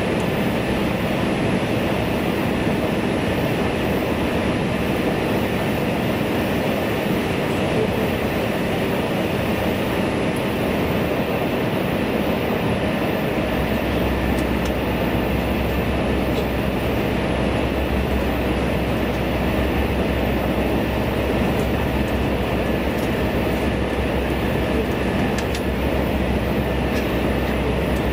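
Steady running noise inside a railcar travelling through a tunnel: wheels on the rails and a dense rumble. The deep rumble grows stronger about halfway through.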